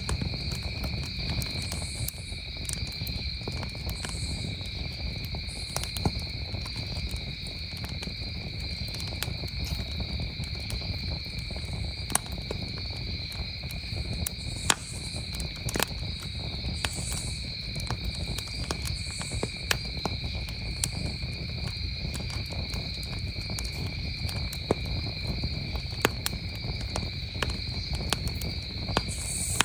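Campfire crackling with sharp, irregular pops over a low rumble of the burning fire, and crickets chirping steadily throughout.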